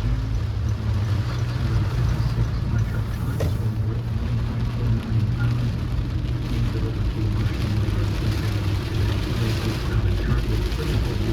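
Car driving in the rain: a steady low rumble of road and engine under a hiss of rain.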